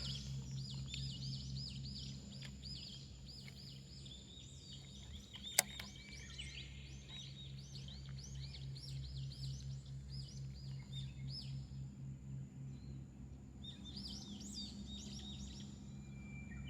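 Songbirds singing, with long runs of quick repeated chirping notes that thin out after about twelve seconds and pick up again near the end. A steady low hum sits underneath, and a single sharp click comes about five and a half seconds in.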